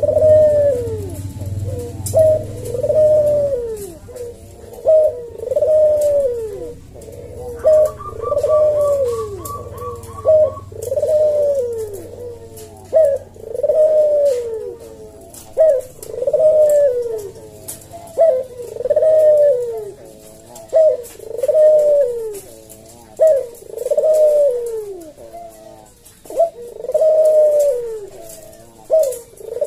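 Puter (Barbary dove) cooing steadily, a short note followed by a longer falling coo, repeated over and over about once a second or so. A brief rapid run of higher ticks sounds about eight seconds in.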